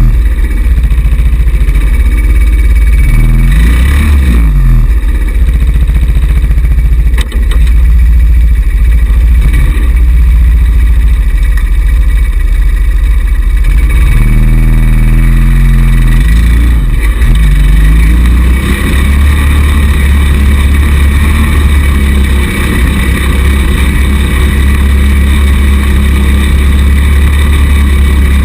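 Small 110cc single-cylinder four-stroke buggy engine running, revving up and easing off a few times, over a heavy low rumble.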